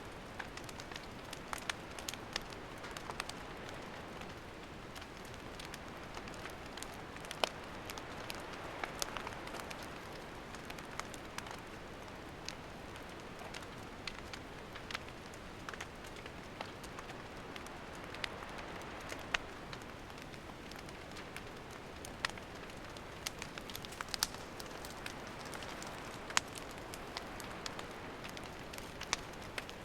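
Wood campfire burning, crackling with a steady soft hiss and frequent, irregular sharp pops and snaps.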